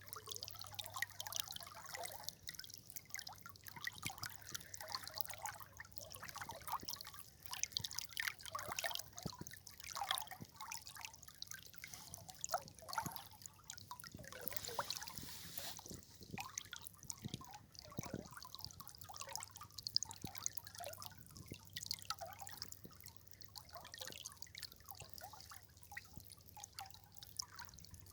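River water trickling, with a constant patter of small, irregular drips and splashes.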